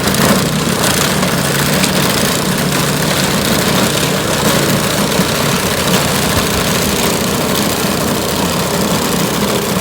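Small petrol-engined ice-clearing machine running steadily under load, its engine hum mixed with a constant scraping hiss.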